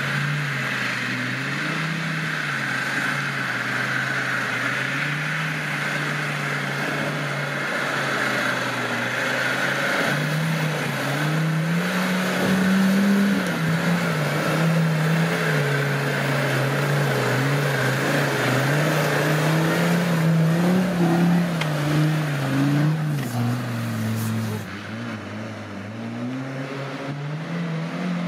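Off-road 4x4 engine working under load, its revs rising and falling again and again, easing off to lower revs near the end.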